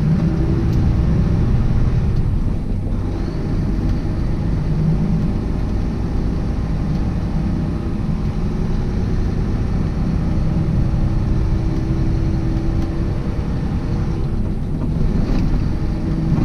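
Truck engine and road noise heard inside the cab while driving: a steady low rumble with a faint hum running through it.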